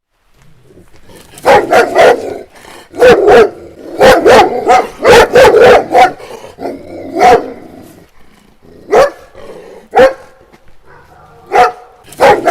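Dog barking, starting about a second and a half in with quick runs of two to four barks, then single barks with pauses between them.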